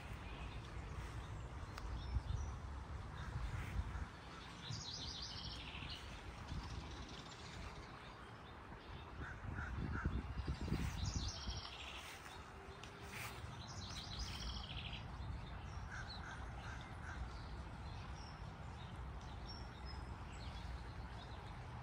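Birds calling outdoors: three short bursts of quick, high repeated notes and a few scattered chirps over a steady low rumble.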